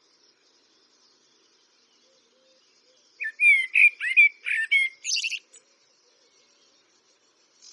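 Eurasian blackbird singing one phrase of fluting whistles about three seconds in, ending in a higher, quicker twitter.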